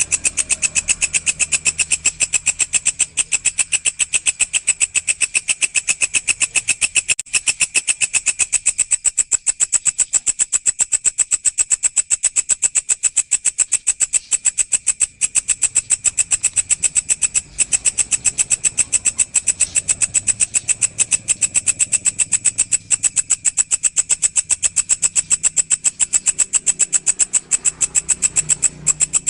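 Walang, a singing grasshopper, stridulating: a steady, high-pitched, rapidly pulsing buzz that runs unbroken.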